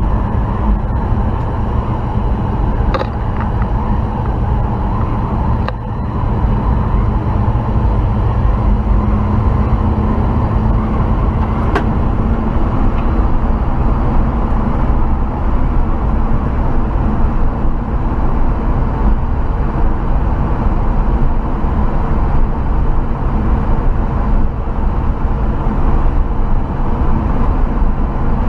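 1968 Chevrolet C20 pickup running, a steady low drone of engine and vehicle noise throughout, dipping slightly about six seconds in.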